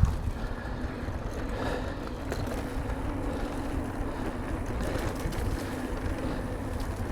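Electric mountain bike rolling along a dirt trail: a steady low rumble of tyres and wind on the microphone, with a faint steady hum.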